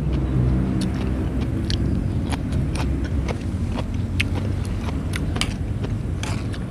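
Close-up crunchy chewing of young green coconut shell pieces dressed in rujak sauce: scattered short, sharp crunches over a steady low rumble.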